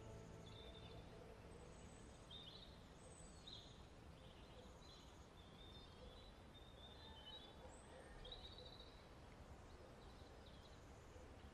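Near silence: a faint outdoor background with scattered short bird chirps.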